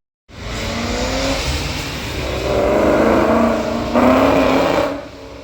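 Car engine revving and accelerating hard, its pitch climbing and wavering. It is loudest about four seconds in, then falls away sharply near the end.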